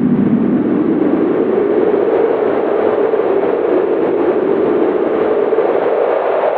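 Howling winter wind, a steady rushing noise whose pitch rises over the first couple of seconds and then wavers up and down.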